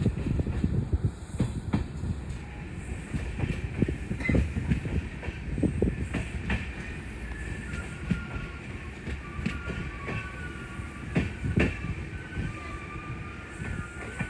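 Passenger train running on the rails, its wheels clacking irregularly over rail joints over a steady low rumble. About halfway through, a thin, wavering wheel squeal sets in and continues.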